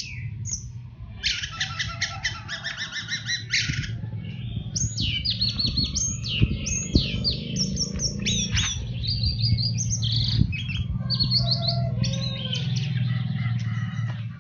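Orange-headed thrush singing a long, varied song of fast trills, rapid repeated notes and whistled up-and-down glides, with a steady low hum underneath.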